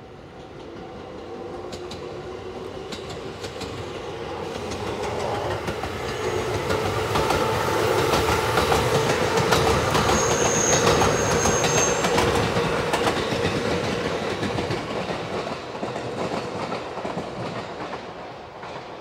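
JR 213 series four-car electric train pulling away from a station and passing close by. Its wheels clack over the rail joints under a steady hum that edges up in pitch as it gathers speed. The sound swells to its loudest about halfway through as the cars go past, with a brief high squeal then, and fades as the train moves away.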